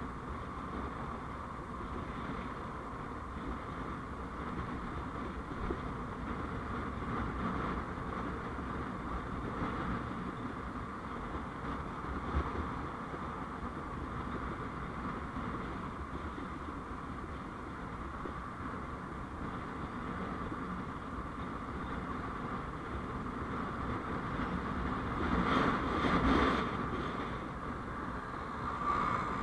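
Steady road and traffic noise recorded from a moving vehicle, a continuous drone of engine and tyres, with a louder swell a few seconds before the end as something passes close by.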